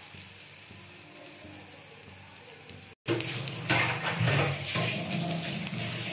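Besan-coated potato patties (aloo chop) frying in hot mustard oil in a pan: a steady sizzle with crackling pops. It cuts out abruptly about three seconds in and comes back louder.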